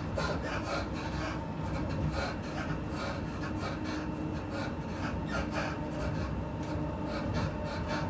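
Inside a moving electric passenger train: the steady rumble of wheels running on the track, with a quick, rasping rattle about three times a second and a faint steady whine.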